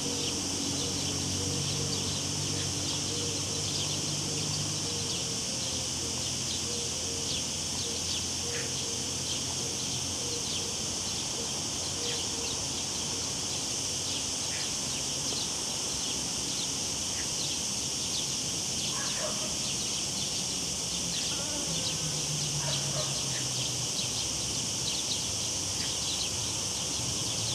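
Cicadas droning steadily, high-pitched, with scattered short bird chirps over them. A low engine hum from distant traffic fades out about five seconds in.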